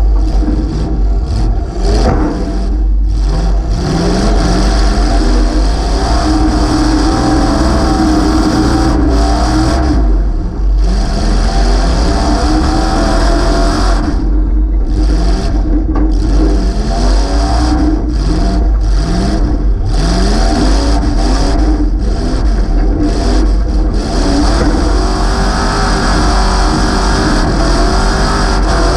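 Demolition derby car's 355 V8 running loud through open headers stacked up through the hood, revving up again and again in short rising surges as it accelerates and backs off.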